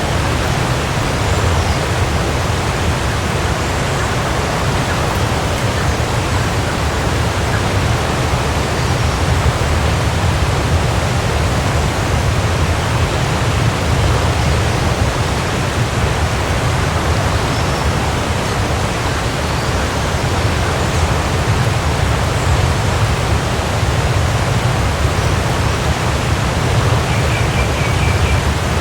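Waterfall: water falling and crashing in a steady, unbroken rush with a deep rumble underneath.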